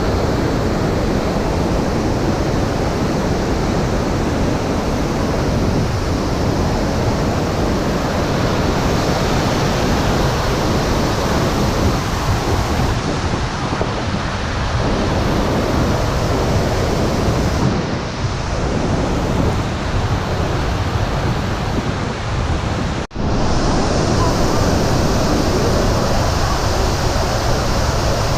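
Steady, loud rushing roar of the Iguazú waterfalls, cut off abruptly for an instant about 23 seconds in before resuming.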